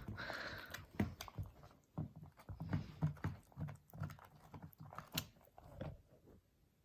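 Dog growling in a run of short low pulses, with a few sharp clicks mixed in, fading out about six seconds in: a warning growl from a dog guarding something it holds.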